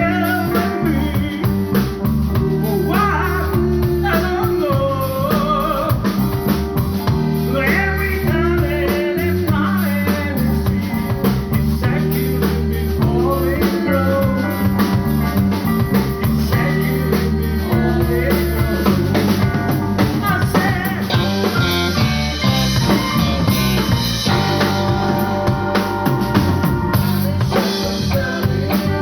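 Live band playing a blues number, with drum kit and guitar over a steady beat.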